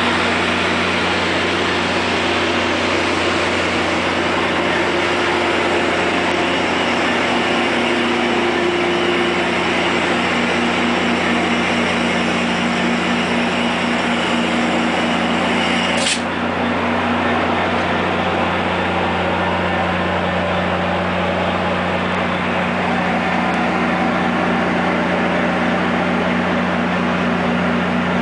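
Diesel locomotive engine idling steadily with a low, even hum. About halfway through, the high hiss drops away suddenly while the engine hum carries on unchanged.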